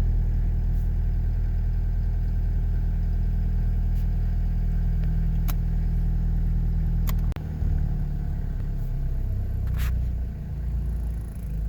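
Toyota Hilux Surf engine idling cold with the idle-up button engaged, running at a steady raised idle. The engine note dips and changes abruptly about seven seconds in. A few sharp clicks sound over it.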